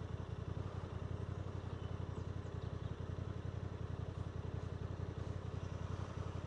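Motorcycle engine running steadily while riding, a low even pulsing drone.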